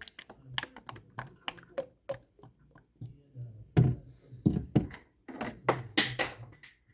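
Hands handling objects close to the microphone: a run of irregular taps, clicks and thunks, with louder knocks in the second half.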